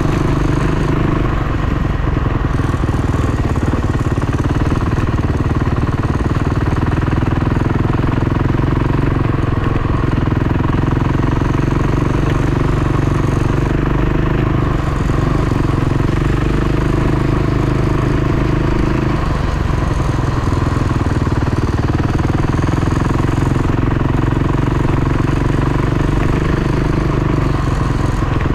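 Dirt bike engine running continuously while riding, held at fairly steady revs with small throttle changes every few seconds.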